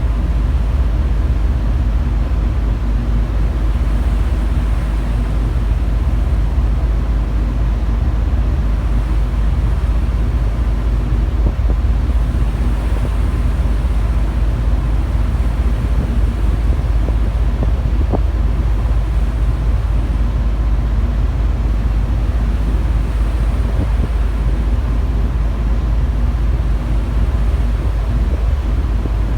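Car ferry under way: a steady deep rumble of the ship and its engines, mixed with wind buffeting the microphone.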